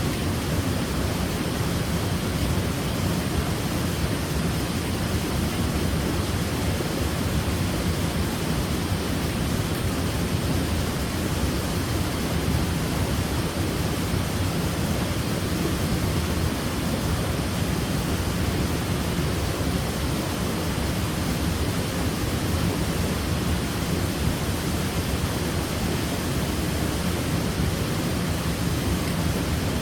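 Waterfall: a steady, unbroken rush of falling water, deepest in the low end, with no separate splashes or changes.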